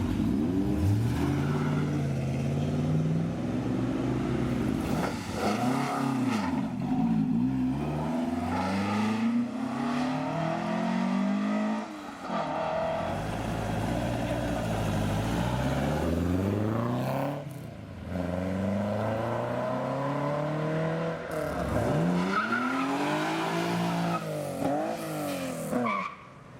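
Several petrol car engines revving hard as cars accelerate away one after another. Each engine's pitch climbs and drops again through the gear changes, about five separate run-ups in all.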